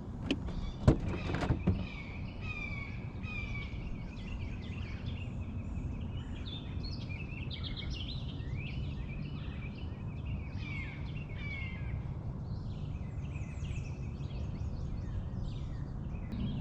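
A chorus of songbirds chirping and singing, many short overlapping phrases, over a steady low rumble. A few sharp knocks come in the first two seconds.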